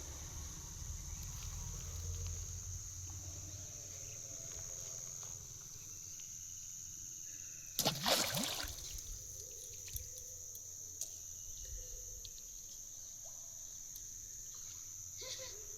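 A single splash in the canal water about halfway through, lasting under a second. It sounds over a steady high drone of insects.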